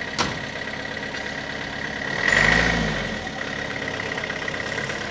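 Sugarcane truck's engine idling, with a brief rise and fall in engine speed about two seconds in. A sharp click sounds just after the start.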